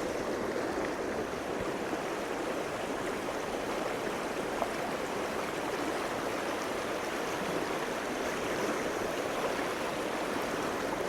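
Small stream's water running steadily, with a single small tick about halfway through.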